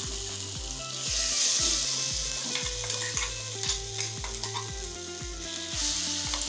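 Ground guava paste sizzling as it fries in hot oil in a nonstick pan, stirred with a spatula, with a steady background music beat underneath.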